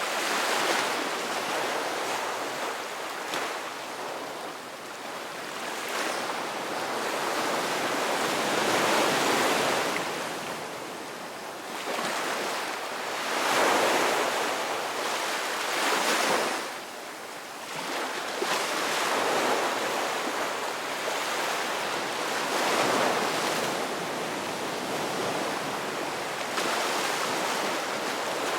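Ocean waves washing onto a shore, the surf swelling and receding every few seconds in a continuous wash, with a brief lull about two-thirds of the way through.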